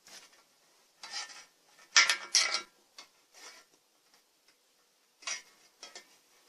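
Hard objects being handled: a few short clinks and clatters, the loudest pair about two seconds in, with no motor running.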